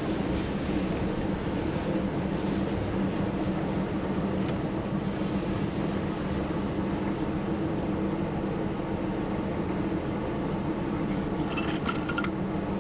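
TU7 narrow-gauge diesel locomotive's V12 engine running at a steady, even note, with a few faint clicks near the end.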